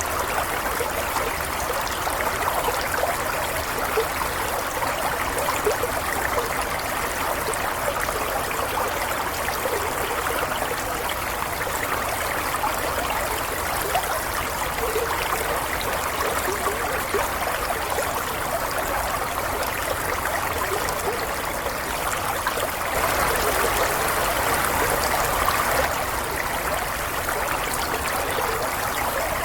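Running water flowing and trickling steadily, a little louder for a few seconds near the end.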